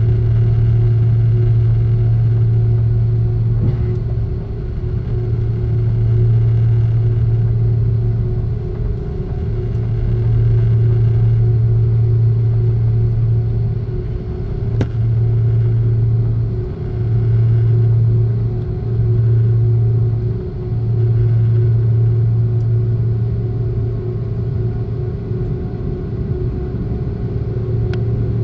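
Cabin noise inside an Airbus A330-300 on the ground before takeoff: a steady low rumble with a constant hum above it. The rumble dips briefly several times, around the middle and again near the end.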